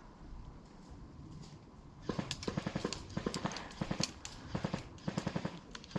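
Airsoft gun firing full-auto in short bursts of rapid, evenly spaced clicks, starting about two seconds in and repeated about six times.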